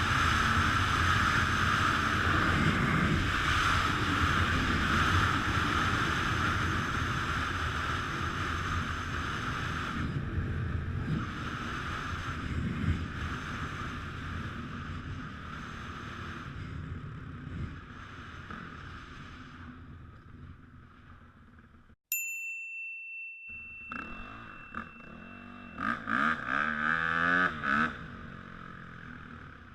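Dirt bike riding noise mixed with wind on the microphone, dying away over about twenty seconds. After a brief dropout comes a steady high beep lasting a few seconds, then some irregular clattering.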